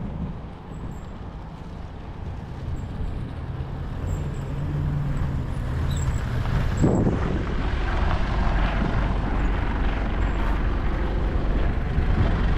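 Low, steady engine rumble with some wind noise, growing louder about four seconds in, with a single knock about halfway through.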